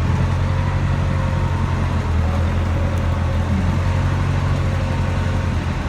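Backhoe's diesel engine running steadily with a low drone while it pulls the dozer off the trailer.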